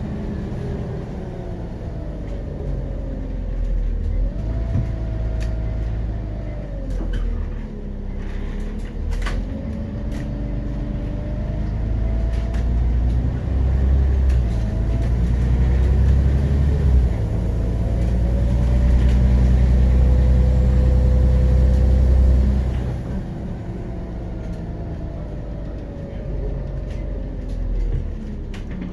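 Scania CN94UB Omnicity city bus driving, with its Scania DC9 diesel engine and ZF 4HP500 automatic gearbox heard from on board: a deep running rumble whose pitch climbs and drops several times as the bus speeds up and the gearbox changes gear, loudest in the middle.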